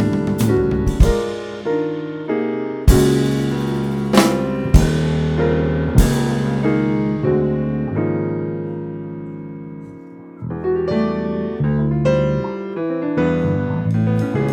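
Live jazz-fusion band playing: keyboard chords over bass with sharp drum hits, a held chord fading away about two thirds of the way in before the band comes back in with piano and drums.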